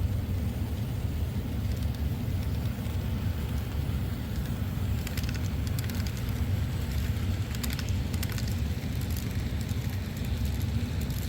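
Model coal train running along the layout track: a steady low rumble with a few clusters of light clicking about five, seven and nine seconds in.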